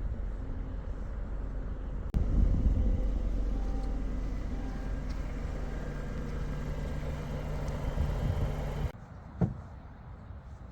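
A car running, with a steady low engine and road rumble that grows louder about two seconds in and cuts off abruptly near the end. A single knock follows.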